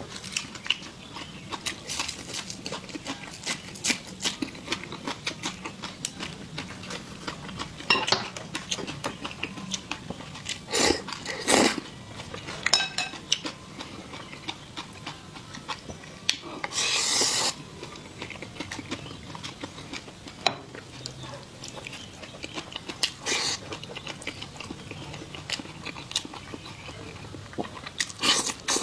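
Close-up eating sounds: chewing, with many small clicks of utensils against bowls and plates. There are a few louder bursts of noise, the longest about two thirds of the way through.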